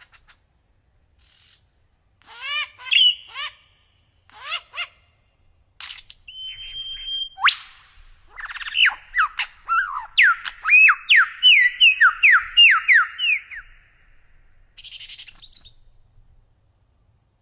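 A bird singing: scattered short pitched calls, a held whistled note a little after six seconds, then a fast run of downward-sliding notes for about five seconds.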